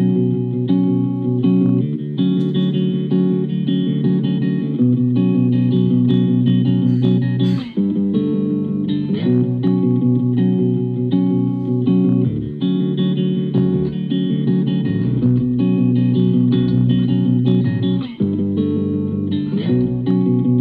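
Instrumental guitar music with bass, played through a Bang & Olufsen Beosound Explore portable Bluetooth speaker at 75% volume, with little deep bass. The music drops out briefly twice, about eight seconds in and near the end.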